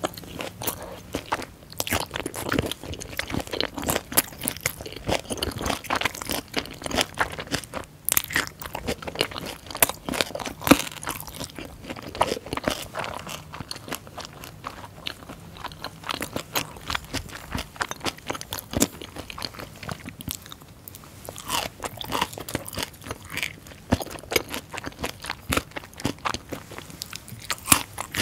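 Close-up chewing of a mouthful of fermented skate with boiled pork and aged kimchi, the skate's cartilage crunching in dense, irregular crackles.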